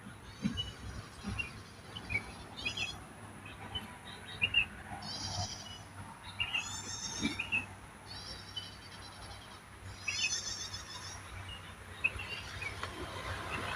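Wild songbirds singing: a high, rapid trill repeated every second or two, with short chirps in between.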